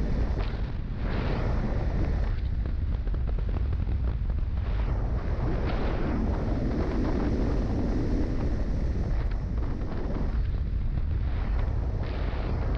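Heavy, steady wind rush buffeting the microphone of a motorcycle moving at speed, with no clear engine note standing out above it.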